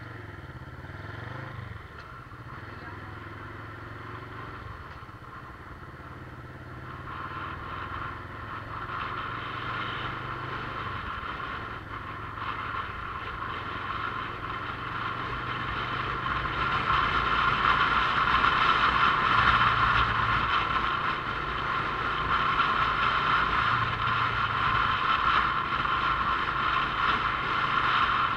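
Motorcycle riding along, its engine running low with a few shifts in pitch. A rushing noise of wind and road builds from about seven seconds in and is loudest from about seventeen seconds on.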